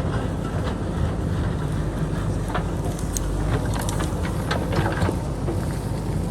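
JCB backhoe loader's diesel engine running steadily under load while it digs the hillside, with scattered knocks and scrapes of rock and dirt against the bucket.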